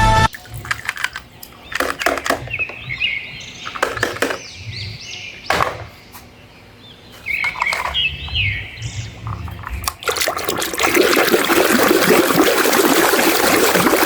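Scattered clicks and short high squeaks, then about ten seconds in a steady rush of water spraying as a muddy toy is washed.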